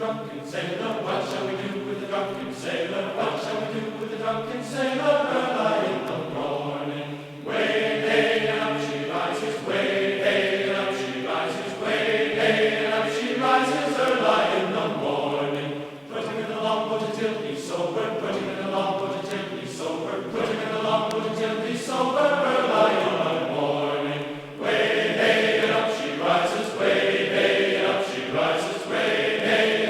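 Choral chanting music: several voices singing long, held harmonised notes in slow phrases, with a short break about every eight seconds.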